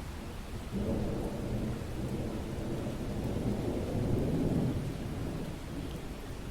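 Steady rain falling, with a rumble of thunder that comes in about a second in, swells around four seconds and dies away a second later.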